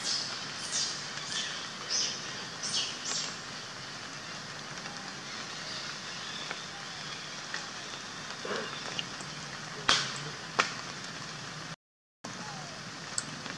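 Steady hiss of rain, with a run of short, high, falling chirps in the first three seconds and two sharp clicks later on. The sound cuts out completely for about half a second near the end.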